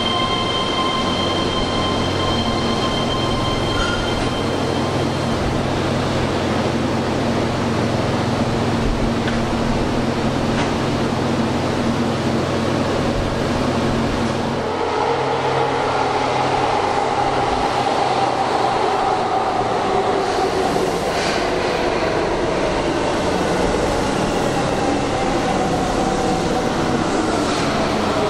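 Keihan electric commuter train in an underground station, with steady running and rail noise. From about halfway a train's motor whine glides slowly down in pitch over wheel and rail noise as it brakes.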